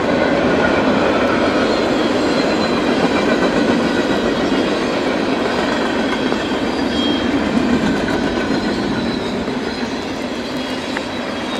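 A freight train's cars rolling past at close range: a steady, loud rumble of wheels on rail, with faint high-pitched wheel squeal.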